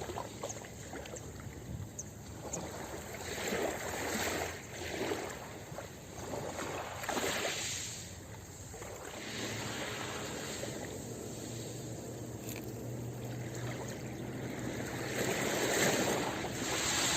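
Ocean waves washing onto a beach: a continuous rush of surf that swells and eases every few seconds, loudest near the end.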